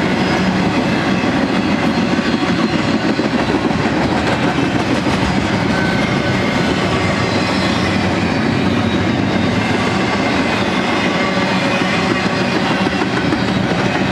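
Double-stack intermodal freight train's container-laden well cars rolling past: a steady rumble of steel wheels on rail.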